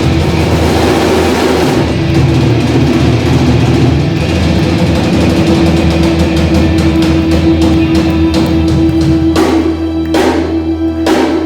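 Rock band playing live without vocals: electric guitar, bass and drum kit. Near the end a chord is held while the drummer plays three separate crashing hits.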